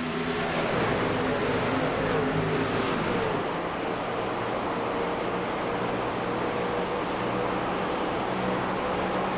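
Truck engine running hard: its pitch slides up and down in the first three seconds, then holds steady over a rushing noise.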